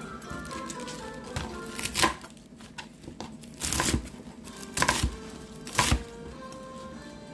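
Kitchen knife chopping on a cutting board, a few separate cuts about a second apart, over background music.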